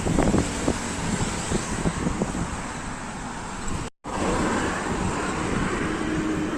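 Road traffic noise of heavy vehicles and cars passing at speed, with wind buffeting the microphone in the first couple of seconds. The sound cuts out completely for a moment just before four seconds in, then resumes as a steadier passing-vehicle noise with a faint held tone.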